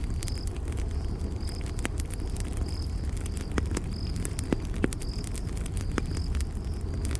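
Campfire crackling, with sharp pops and snaps over a low steady rumble of burning. A cricket chirps steadily in the background, one short high chirp about every second.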